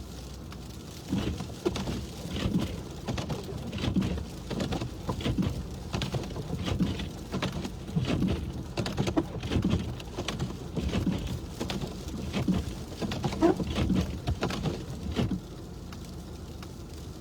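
Irregular patter and low knocks heard inside a car driving on a snow-covered, plowed street, stopping abruptly about fifteen seconds in.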